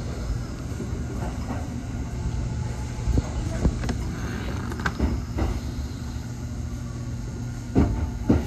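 Kintetsu 1021 series electric train heard from the driver's cab, running at low speed with a steady low hum. Three times, its wheels clack in pairs about half a second apart over rail joints.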